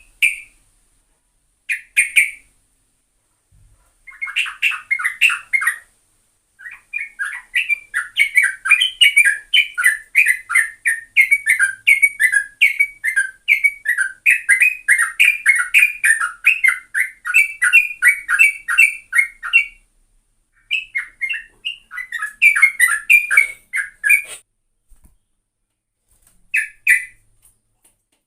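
Yellow-vented bulbul (trucukan) singing: a few short phrases, then a long fast run of chattering notes lasting about thirteen seconds (the continuous 'ropel' song), then more short phrases.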